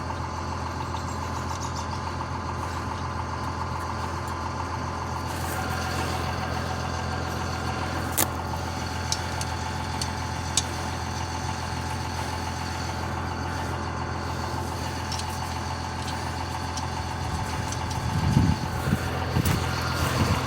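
A vehicle engine idling steadily, with a couple of brief sharp clicks over it.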